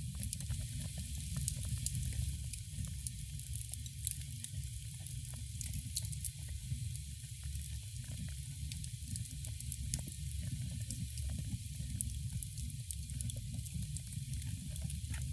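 Wood fire in a fireplace crackling, with many small irregular pops and a steady hiss over a low rumble.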